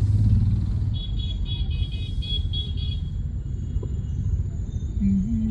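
Car engine and road noise heard from inside the cabin in slow city traffic, a steady low rumble. A high-pitched beeping repeats about four times a second for a couple of seconds, and a low wavering tone starts near the end.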